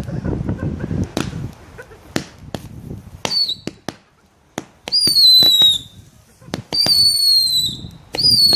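Fireworks going off: a few sharp cracks, then a string of high whistles, each starting suddenly and sliding slightly down in pitch over about a second, repeating every second or two.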